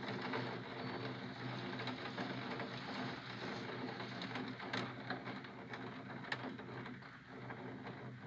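Steady rain hiss with scattered sharp ticks of drops striking the window, over a low steady city hum.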